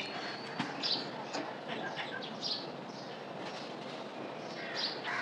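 Birds chirping a few times over a steady background noise.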